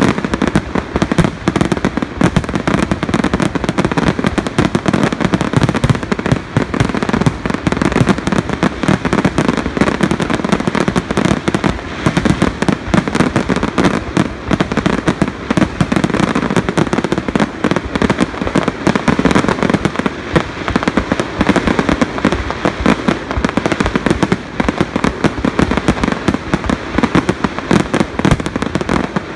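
Aerial fireworks shells bursting in a dense, unbroken barrage of bangs, many per second with no pause between them.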